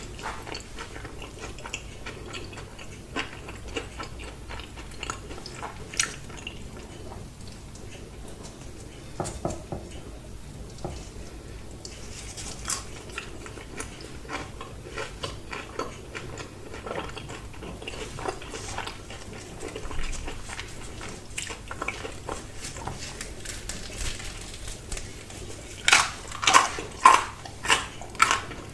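Close-miked eating sounds: soft chewing with scattered small clicks. Near the end comes a run of loud crisp crunches, about two a second, as crunchy vegetable is bitten and chewed.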